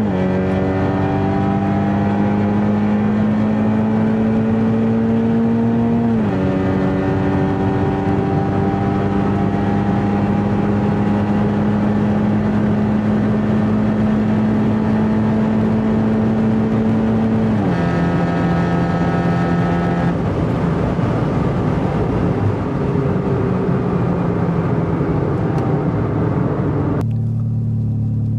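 Stage 3 Audi S3 8V's turbocharged 2.0-litre four-cylinder engine pulling under steady acceleration, heard from inside the car. Its pitch climbs slowly and drops sharply twice, about six and eighteen seconds in, as it shifts up. Near the end the sound switches to a lower, steady idling hum.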